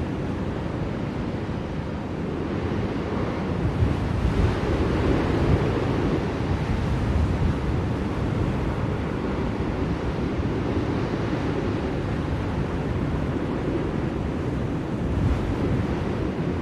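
Blizzard wind blowing steadily with a deep rumble, gusting up about four seconds in and again near the end.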